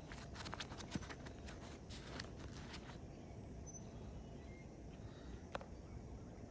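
Light scuffs and small clicks of someone moving and working on an asphalt shingle roof, busiest in the first three seconds and thinning out, with one sharp click near the end, over a steady low rumble of wind.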